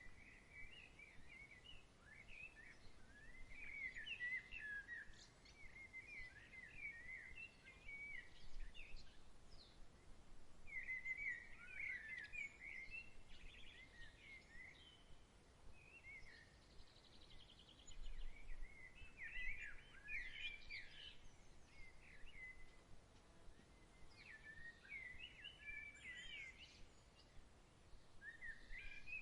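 A songbird singing in quick, warbling phrases of a few seconds each, with short pauses between them, over a faint steady outdoor hiss.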